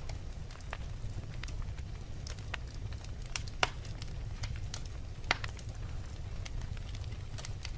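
Wood fire burning in a fireplace, crackling: scattered sharp pops and snaps over a steady low rumble of the flames, with two louder snaps in the middle.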